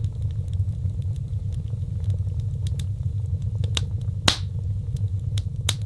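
Wood fire burning in a fireplace: a steady low rumble of flames with scattered crackles and sharp pops, the loudest pop about four seconds in.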